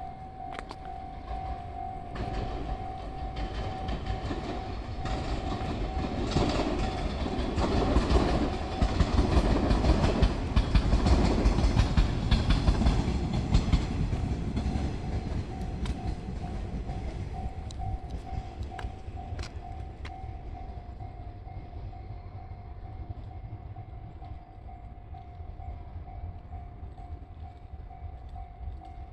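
Mizushima Rinkai Railway diesel railcar running over jointed rail, its wheels rumbling and clacking. It gets louder to a peak about eleven seconds in, then eases off as the train slows for its arrival at the station. A steady high tone sounds underneath almost throughout.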